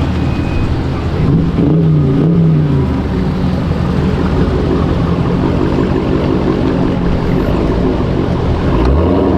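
V8 muscle-car engines and exhaust rumbling loudly. One engine is revved about two seconds in, its pitch rising and falling, and revs up again near the end.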